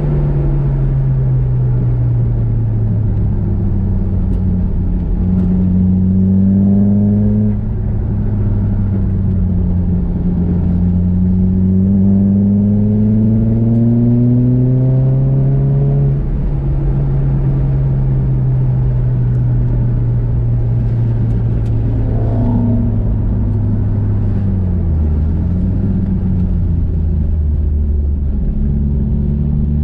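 Nissan Juke's engine being driven hard around a race track: the revs climb steadily and drop sharply twice, then ease down with a brief dip before climbing again near the end.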